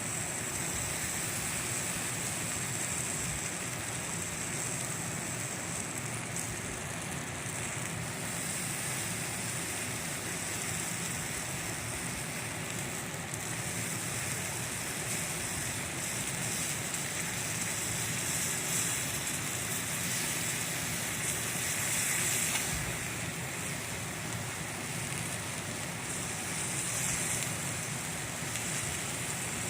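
Steady rushing of a mountain stream, with a campfire burning close by.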